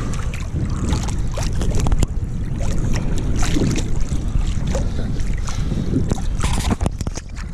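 Wind buffeting the microphone with a steady low rumble, over splashing sea water with many short sharp splashes.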